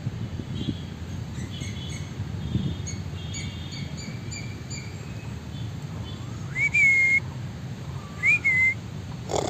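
Small birds chirping in quick, short high notes. Then come two louder whistled calls that rise and then hold, about six and a half and eight seconds in. A steady low rumble runs underneath.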